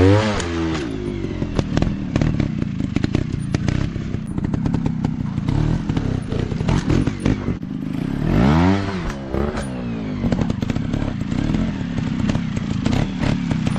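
Dirt bike engine revving up and back down near the start and again about eight and a half seconds in, running lower in between, with frequent clattering knocks throughout.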